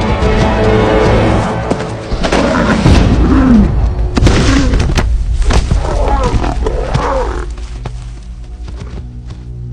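Dramatic soundtrack music with lion snarls and growls and heavy thuds over it from about two to seven seconds in, as the lioness attacks; the music carries on alone after that.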